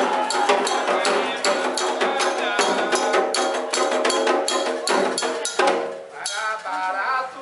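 Candomblé ritual music: hand drums and sharp struck percussion beating a quick regular rhythm under a group of voices singing. The drumming breaks off near the end, leaving only voices.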